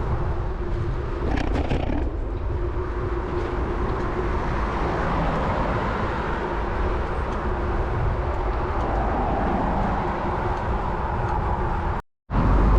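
Road traffic noise with a heavy, steady wind rumble on the microphone, heard from a moving bicycle. A few light clicks come about a second in, and the sound cuts out for a moment near the end.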